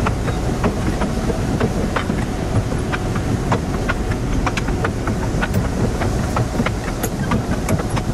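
Passenger train rolling over old jointed track, heard from on board: a steady low rumble with a quick, irregular run of wheel clicks and clacks.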